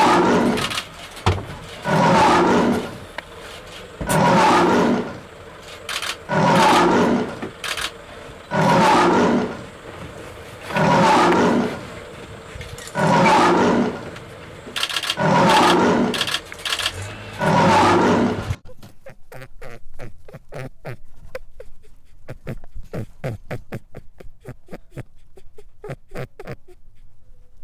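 A big cat roaring, about nine long, loud roars a couple of seconds apart. After about eighteen seconds the roars stop and a quieter, fast run of sharp clicks follows.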